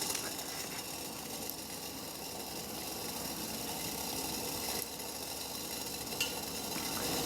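Water at a rolling boil in an uncovered pot on a wood-gas pellet stove, a steady bubbling.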